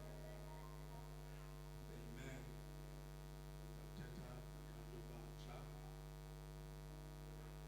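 Steady electrical mains hum with a low buzz, with a few faint brief sounds about two, four and five and a half seconds in.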